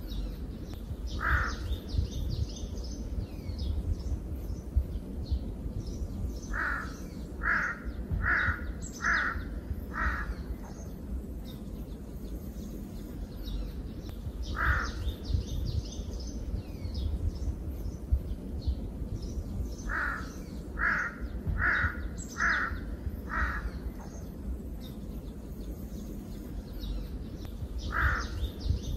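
Forest bird ambience: a bird calling in runs of five short calls, about one every 0.7 seconds, with single calls between the runs. Faint high twittering of smaller birds and a low steady rumble lie underneath, and the whole sequence repeats about every 13 seconds.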